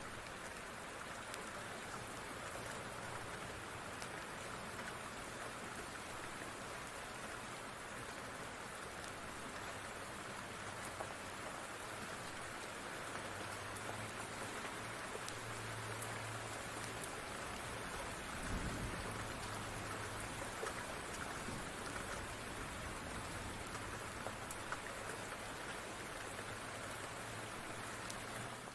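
Steady rain falling, with scattered faint clicks through it and a brief low rumble about two-thirds of the way in.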